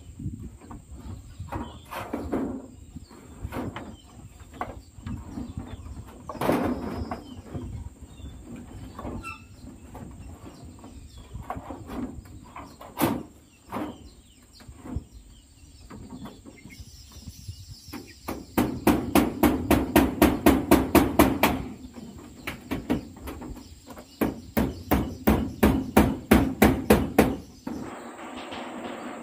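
Hammering: a few scattered single knocks, then two quick runs of evenly spaced blows at about five a second, as if driving nails.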